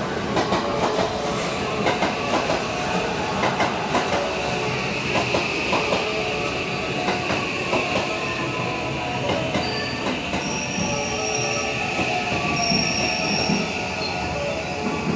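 JR West 323 series electric commuter train running past close by, its wheels clicking over the rail joints, with a steady high-pitched wheel squeal that is strongest in the middle.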